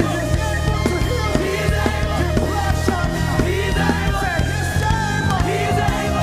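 Live worship band playing, with drum hits in a steady beat over a sustained bass line and held chords.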